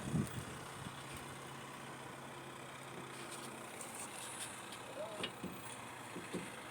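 A motor vehicle's engine hums steadily in the background and stops about halfway through. There is a knock near the start and a few light clicks and knocks after it.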